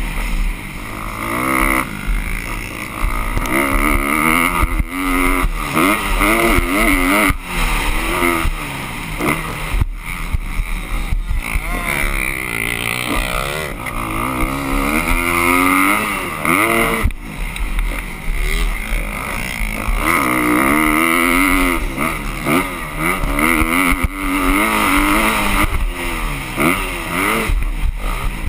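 Motocross dirt bike engines revving, their pitch rising and falling again and again as the throttle is opened and closed.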